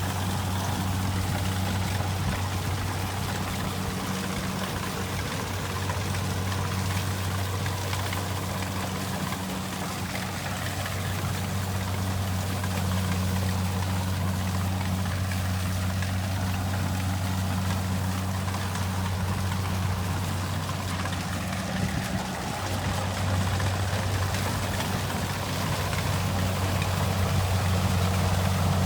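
Kubota rice combine harvester running steadily: a constant low diesel engine drone with a broad rushing noise of the machinery over it.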